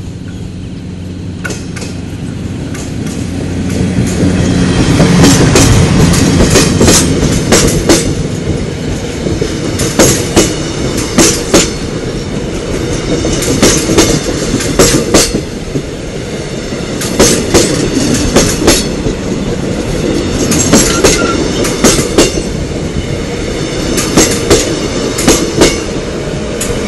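KORAIL passenger train rolling past, its rumble swelling over the first few seconds as the coaches draw level. Then the wheels clack over the rail joints in quick pairs and groups, one group every second or two, as each bogie crosses.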